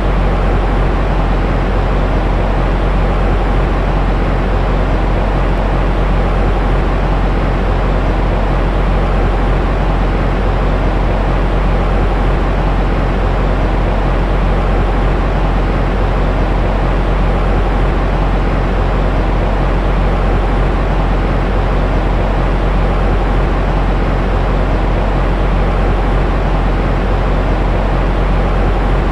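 Steady, unchanging low-heavy white noise with a deep rumble, the kind played to soothe and settle a crying baby.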